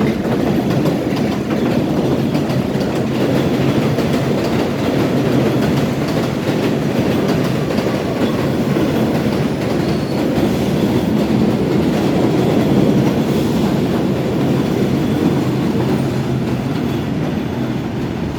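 Elevated subway train passing along the overhead tracks, a loud steady rumble with the clatter of wheels on rail joints. It swells a little after the middle and eases slightly near the end.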